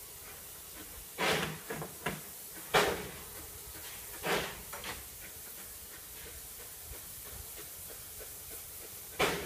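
Steady hiss of steam from a narrow-gauge steam locomotive, broken by about six short, sharp bangs at uneven intervals, the loudest about three seconds in.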